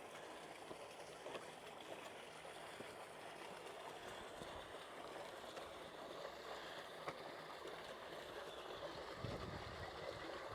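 Faint, steady rush of flowing water, with a few light clicks.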